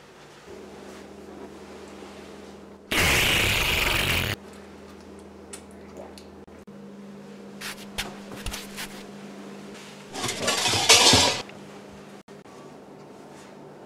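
Kitchen handling sounds: two loud bursts of rushing noise about a second long, the first about three seconds in and the second near the end, with light clicks and clinks of crockery between them.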